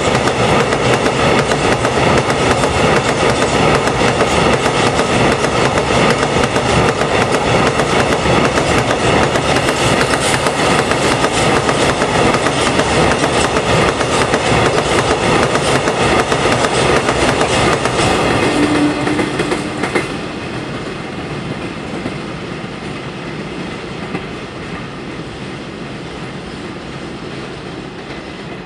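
Freight train's wagons passing fast at close range, the wheels clattering steadily. About two-thirds of the way through the last wagon goes by and the sound drops sharply, then fades as the train moves away.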